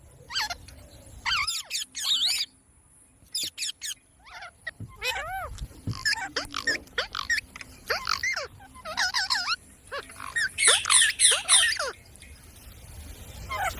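Parrot calling: a run of short, arched chirps and squawks in clusters, thickest near the middle and toward the end.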